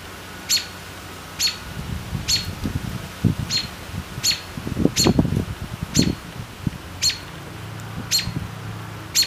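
A bird chirping a short, high note over and over, about once a second, against a steady low forest background. A few soft low thuds come near the middle.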